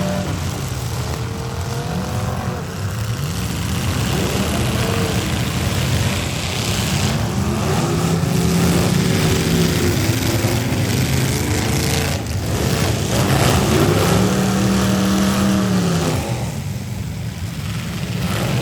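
Several demolition-derby cars' V8 engines revving up and down, their pitch rising and falling over and over, with a few sharp bangs of car bodies colliding near the middle.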